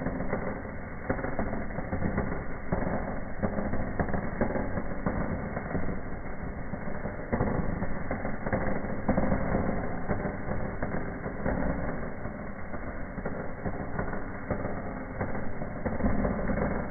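Small fireplace firework (a 'Bienenvulkan' fountain) burning, giving a continuous dense crackling hiss with rapid small pops.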